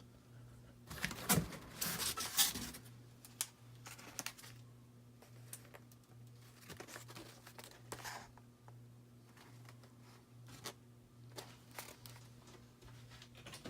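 Packing material being unwrapped and handled: crinkling and rustling, loudest in a burst about one to three seconds in, then lighter rustles and small clicks.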